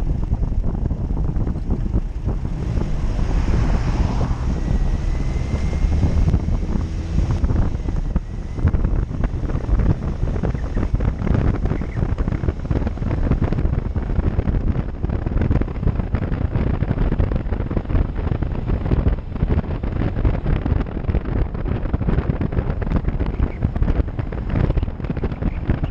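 An off-road vehicle's engine running, under heavy wind buffeting on the microphone that makes a constant fluttering rumble.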